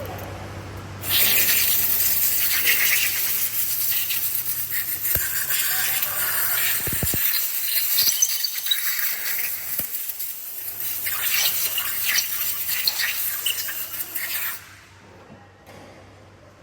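A long, loud hiss of air or liquid spraying, starting about a second in and cutting off near the end.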